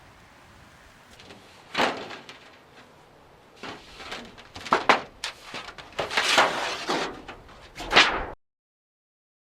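A series of knocks and scrapes from beehive parts being handled and set in place, with a scraping stretch around the middle and the loudest knock near the end. The sound then cuts out to dead silence.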